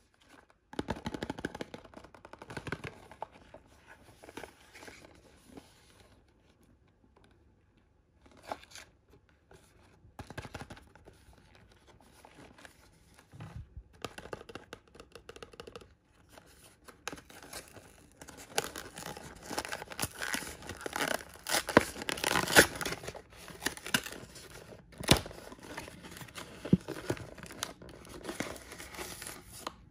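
Blind-bag packaging being torn open and crinkled by hand in irregular bursts of rustling and tearing, with a brief lull early on. It is busiest and loudest about two-thirds of the way through, and a sharp snap comes soon after.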